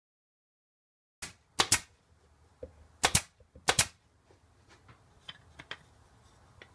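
After a second of silence, a few sharp clicks or knocks: about five loud ones over the next three seconds, then a scatter of fainter ticks.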